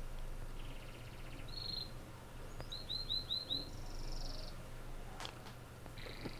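Small birds calling: short, fast high trills and chirps, with a quick run of five falling chirps about three seconds in.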